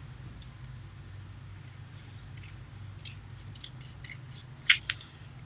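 A sheet of paper being handled, with light crinkles and clicks, then two sharp, crisp sounds close together near the end.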